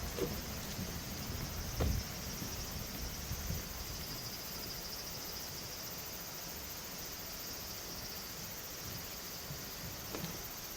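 Forest ambience: a steady, high-pitched chorus of insects over a low rumble, with a single thump about two seconds in.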